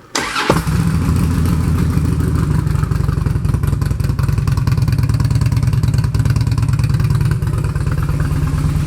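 2007 Harley-Davidson Road King's Twin Cam 96 V-twin, fitted with a Vance & Hines aftermarket exhaust, starting with a brief starter whir right at the beginning and then idling steadily and loudly.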